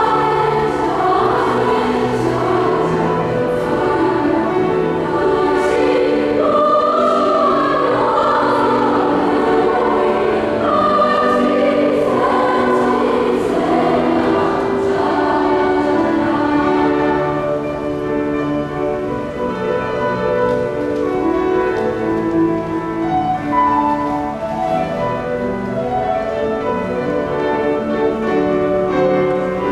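A school choir singing a sacred choral piece with instrumental accompaniment; about halfway through the voices thin out and the accompaniment carries on with long held notes.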